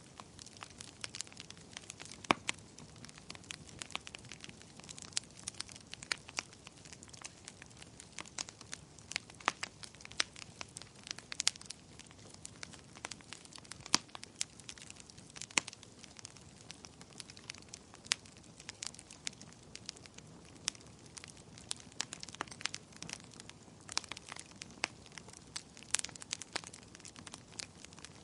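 Wood fire in a fireplace crackling, with irregular sharp pops and snaps over a soft steady hiss of flames.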